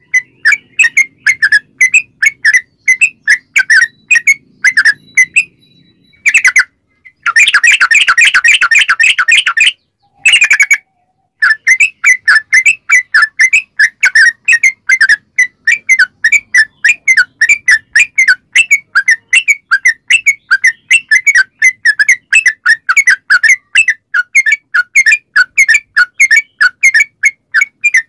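Yellow-vented bulbul (trucukan) singing a long rapid run of short chattering notes, several a second. A brief break comes about six seconds in, then a denser, faster burst for a few seconds, before the steady run resumes.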